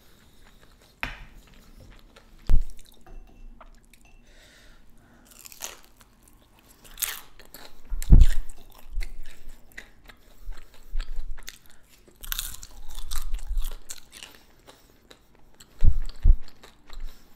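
Close-up eating sounds: a person chewing and crunching on pan-fried kimchi dumplings and chewy cold noodles, with a few sudden sharp clicks, the loudest about eight seconds in.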